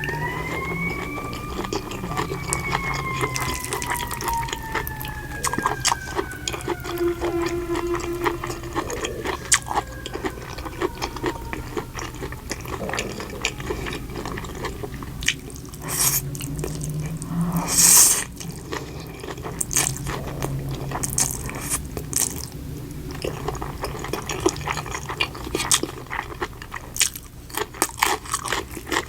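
Close-miked eating for ASMR: steady chewing with many small mouth clicks and crunches, and a louder crunchy bite about eighteen seconds in. A long, slowly falling whine sounds over the first dozen seconds.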